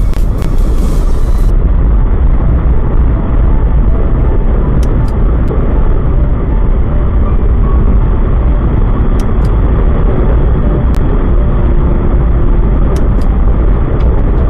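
Motorcycle riding at speed, with loud, steady wind rush over the microphone and engine and road noise beneath it.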